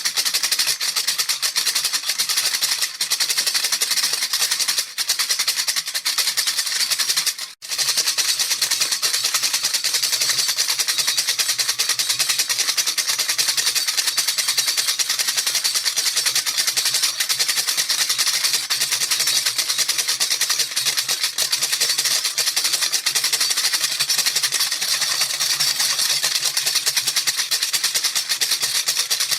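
Baby rattle shaken continuously: a fast, dense, even shaking of small beads, with a brief break about seven and a half seconds in.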